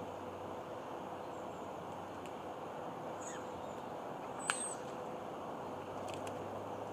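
Small birds chirping outdoors over a steady hiss of ambient noise: a few short, high chirps, with one sharper chirp about halfway through.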